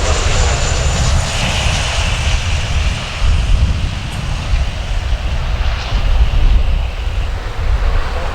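Jet engines of a Boeing 737-900ER landing: a heavy, steady rumble, with a whine on top from about a second in until about seven seconds in.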